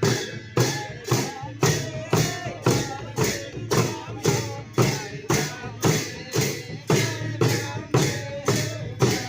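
Drum and clashing cymbals playing a steady beat, about two strokes a second, with a faint melody line over it: music of the kind played for the Sakela dance.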